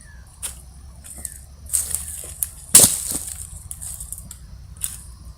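Thicker sticks of firewood being laid on a young campfire: scattered crackles and wooden knocks, with one sharp knock just under three seconds in.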